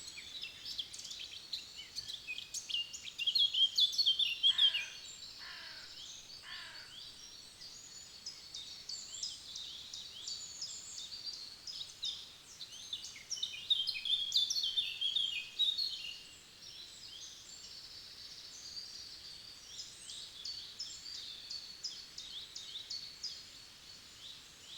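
Several forest songbirds singing at once, quick overlapping chirps and trills throughout. The loudest phrases come about 3 seconds in and again around 14 seconds. About 5 seconds in, three lower calls each fall in pitch, one after another.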